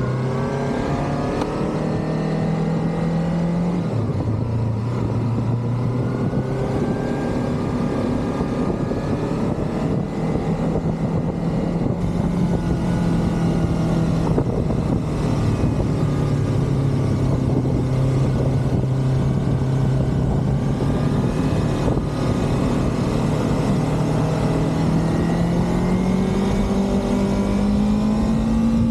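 Motorcycle engine running under way, heard onboard: the engine note drops sharply about four seconds in as it shifts up a gear, holds fairly steady, then climbs near the end as it accelerates. A steady rush of noise runs underneath.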